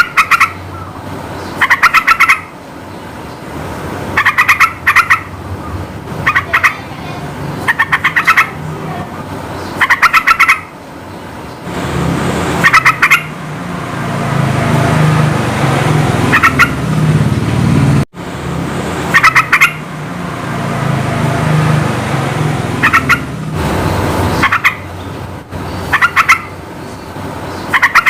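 Yellow-vented bulbul (trucukan) singing: short, loud bursts of rapid bubbling notes repeated every second or two. A low rumble swells twice in the background, around the middle.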